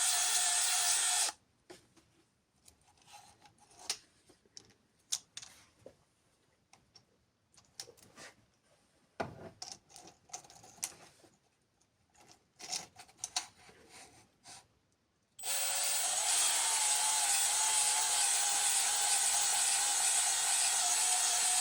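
Electric drill spinning a cylinder hone in an engine bore, a steady whine with abrasive scraping. It stops about a second in, leaving scattered light clicks and knocks, then starts again near the end.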